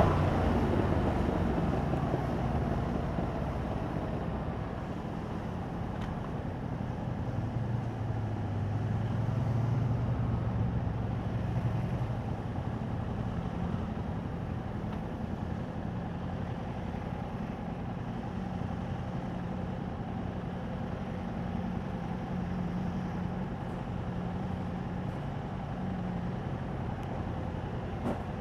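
2021 Yamaha MT-07's parallel-twin engine through its stock exhaust, running steadily under way, with a swell in engine note about eight to eleven seconds in before it settles back to an even cruise.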